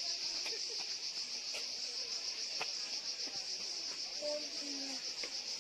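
Steady high-pitched chorus of insects, a continuous fine trilling drone.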